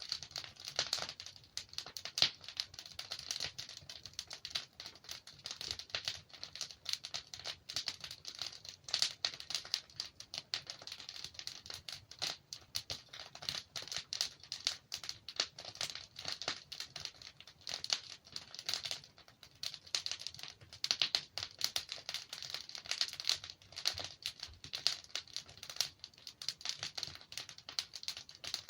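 Wood fire burning in a fireplace: a dense, irregular crackle of small snaps and pops from the burning logs.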